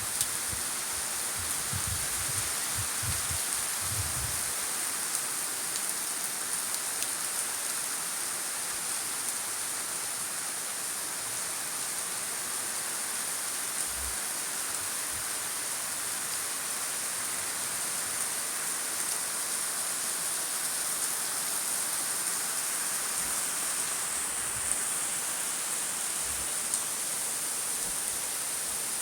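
Monsoon rain falling steadily, a continuous even hiss of rain on surfaces, with a few low bumps in the first few seconds.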